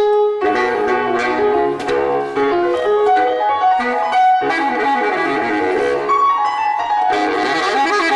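Instrumental music with a saxophone lead over piano, played as a full band arrangement with several notes sounding at once.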